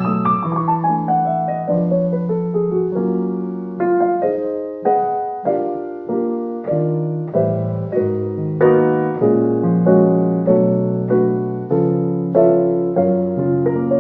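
Background music: solo piano playing a slow, gentle piece of single notes and chords, each note struck and left to ring out.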